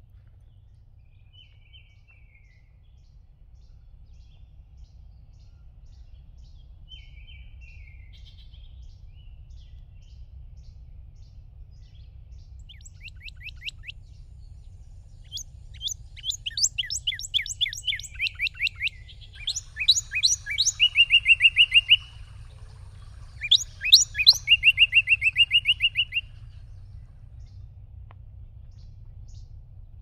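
A songbird singing: a couple of short high calls, then about halfway through a run of quick down-slurred notes followed by two fast trills, the loudest sounds. A steady low rumble lies underneath.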